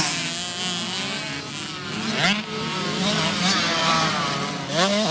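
Small two-stroke motocross bike engine running on the track. Its pitch climbs steeply about two seconds in and again near the end as it revs up under acceleration.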